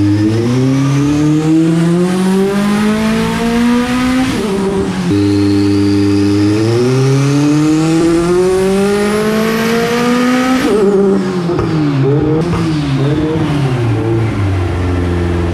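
Turbocharged Honda H22 four-cylinder engine pulling under load on a hub dyno. The revs climb for about four seconds, drop, then climb again to about ten seconds, with a high whine rising alongside. Then the throttle closes and the revs fall and waver before settling to a steady idle.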